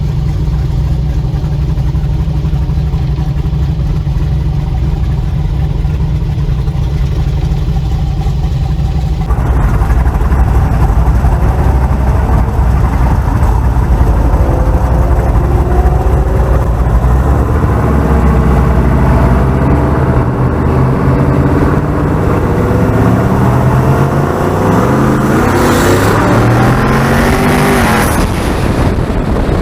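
Car engine running at a low, steady rumble, then louder from about nine seconds in, and later accelerating hard: the pitch climbs and drops back about four times as it shifts up through the gears.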